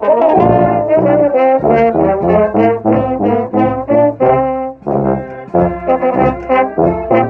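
A pep band with brass starts playing a school song, loud chords in short, punchy rhythmic notes, with a brief break about five seconds in.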